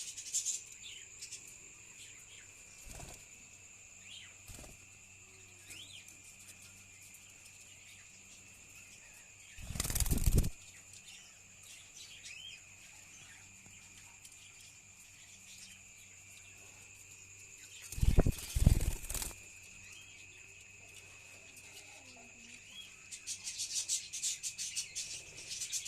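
Caged budgerigars: two loud bursts of wing flapping, about ten seconds in and again near nineteen seconds, with scattered short chirps, and fast, high chattering building near the end. A steady high whine sounds throughout.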